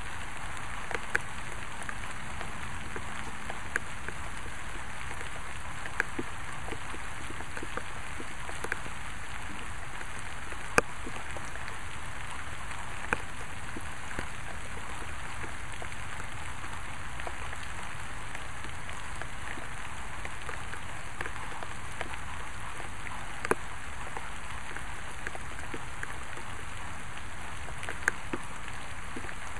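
Steady rain falling, with a scattering of sharp, louder ticks from single drops at irregular intervals.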